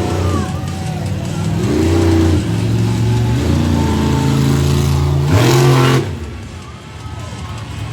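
Monster truck engine revving in a series of blips, its pitch climbing and falling. The biggest rev comes about five seconds in and drops off suddenly about a second later, leaving the engine running lower.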